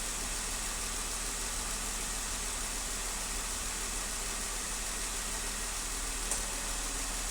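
2015 Jeep Wrangler engine idling steadily with a cylinder 1 misfire. A brief click sounds about six seconds in.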